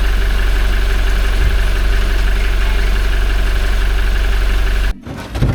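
Toyota 1GD-FTV 2.8-litre four-cylinder turbodiesel idling steadily while warming up; the owner hears a quiet timing-chain rattle in this engine. The sound cuts off abruptly near the end, followed by a brief low thump.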